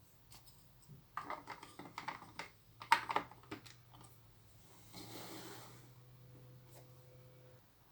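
Small plastic clicks and rattles of Lego pieces being handled and pressed together, the sharpest click about three seconds in, followed by a short rustle about five seconds in.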